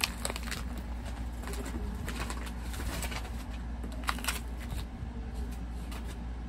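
A bird cooing faintly in the background, over a steady low hum, with scattered light clicks and rustles of small items being handled.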